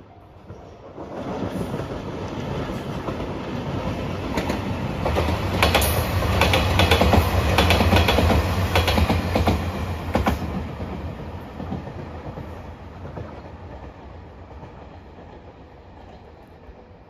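Diesel limited express train passing: the low engine drone and the wheels clacking over rail joints build up about a second in, are loudest midway, then fade away as the train recedes.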